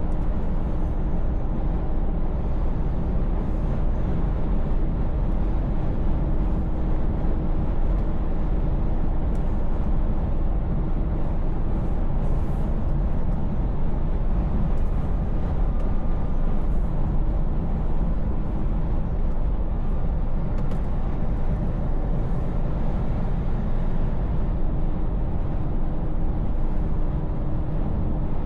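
Scania V8 truck cruising steadily: a continuous low engine drone mixed with road noise, with no changes in pitch or level.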